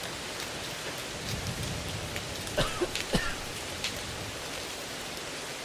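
Steady rain-like noise with a few sharper ticks about halfway through, laid under the recording as deliberate background noise that imitates a noisy exam room.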